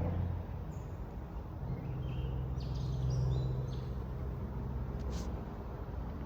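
Outdoor ambience: a few short bird chirps, mostly between one and four seconds in, over a steady low rumble, with a brief click about five seconds in.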